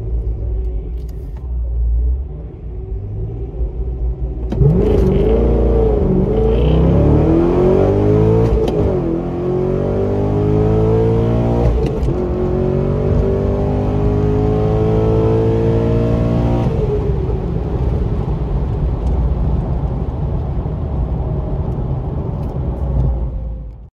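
C6 Corvette Z06's 7.0-litre V8, heard from inside the cabin, idling at the drag-strip starting line, then launching at full throttle about four and a half seconds in. The pitch climbs and drops back at each upshift through a roughly twelve-second quarter-mile pass. About 17 seconds in it lifts off and the engine note falls away as the car slows, and the sound cuts off suddenly just before the end.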